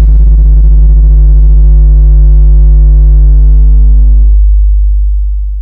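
One long, very loud synthesizer bass note held steady. Its higher overtones drop away about four and a half seconds in, leaving only the deep tone, which fades out near the end.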